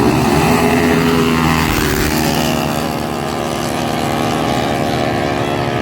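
Honda Karisma motorcycle's single-cylinder four-stroke engine running. Its pitch drops over the first second or two, then holds at a steady speed.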